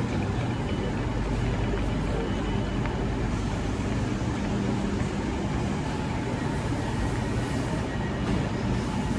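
Steady, unchanging rumble and hiss of a Eurostar train running.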